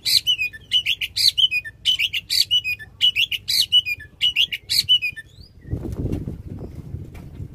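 Oriental magpie-robin singing loudly in fast, repeated whistled phrases that stop about five seconds in, followed by a low rustling noise.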